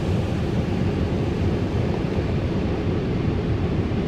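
Automatic car wash air dryer blowers running, a steady, low rushing of air, heard from inside the car.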